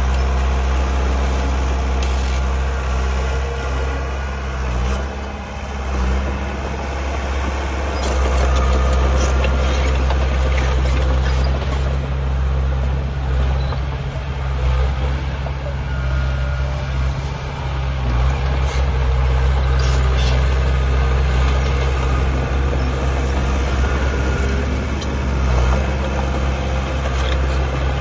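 Heavy diesel earthmoving machinery running steadily with a deep engine hum, with a few short metallic clanks scattered through.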